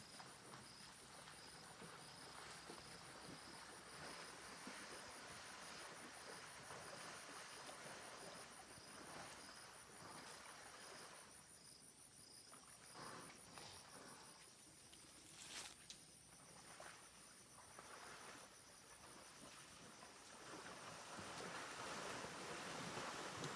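Faint insects chirping in a steady, evenly pulsing high trill over a soft hiss of forest ambience, with one sharp click about two-thirds of the way through.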